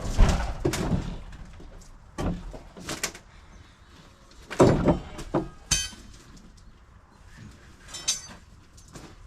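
Deck demolition: irregular wooden knocks and scrapes as old deck boards are pried and pulled loose, with a couple of short high squeaks about halfway through and near the end.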